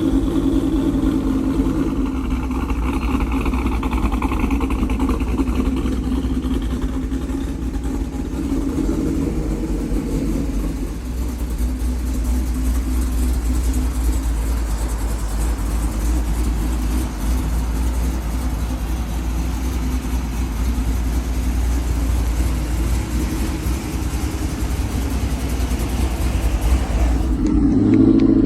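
Cammed 5.3 L V8 in a GMC Sierra, with a BTR Stage 4 cam and long-tube headers, running at a steady choppy, loping idle, the chop of a big aftermarket cam. It swells louder near the end.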